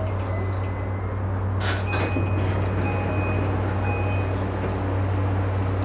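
Cab of an E235-series electric train at a platform: a steady low hum from the train, with a short hiss of air about one and a half seconds in and a few faint high tones after it.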